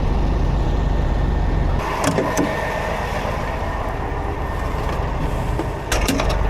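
Heavy truck engine idling with a steady low rumble. The rumble drops away abruptly about two seconds in, leaving a thinner noise with a couple of sharp clicks, and comes back suddenly near the end with a few more clicks.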